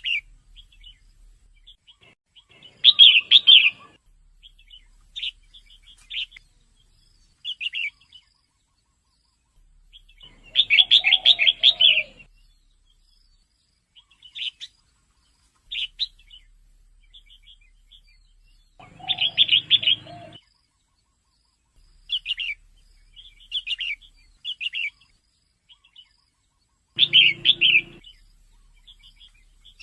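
Female red-whiskered bulbul calling: short high chirps, broken by a louder chattering call about every eight seconds.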